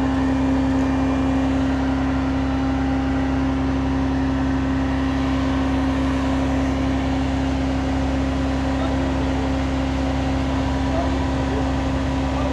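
A fire truck's engine and aerial-ladder hydraulics running with a steady, even hum as the ladder is raised.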